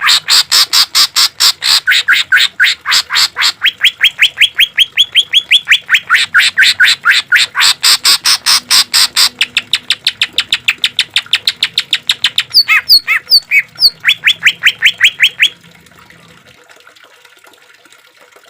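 Cucak ijo (green leafbird) singing a long, rapid series of harsh repeated notes, about six a second. A few clear whistled notes break in near the middle. The bird stops about three seconds before the end.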